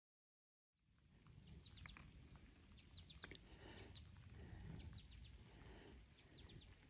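Faint bird chirping starting about a second in: groups of three or four quick, high, downward-sliding notes repeated every second and a half or so, over a low rumble.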